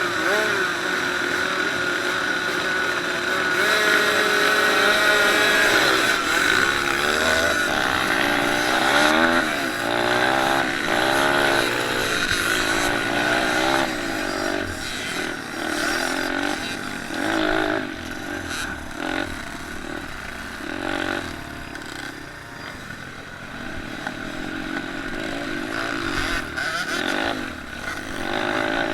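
Several small off-road motorcycle engines (pit bikes and 50 cc and 65 cc minicross bikes) racing, with their pitch repeatedly climbing and dropping as the riders rev and shift.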